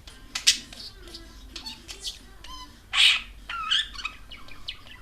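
Pet budgerigar chattering in quick, scratchy warbles broken by short harsh squawks, the loudest about three seconds in.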